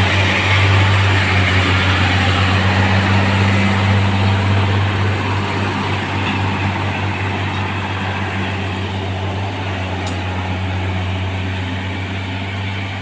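Heavy diesel engine of a railway track-changing machine running steadily with a deep hum, slowly growing fainter.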